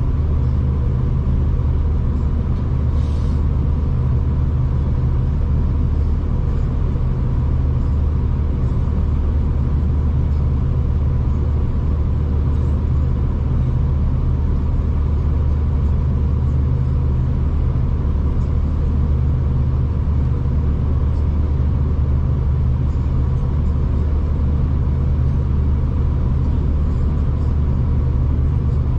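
Steady low rumble and hum of a V/Line diesel passenger train running along the line, as heard from inside the carriage.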